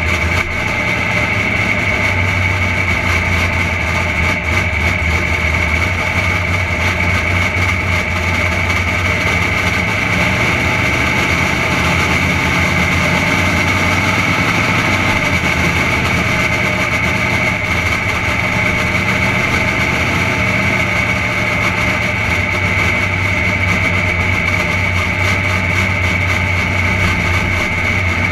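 Henry J drag car's engine idling and running at low speed as the car rolls slowly, a steady low rumble with a steady high whine over it.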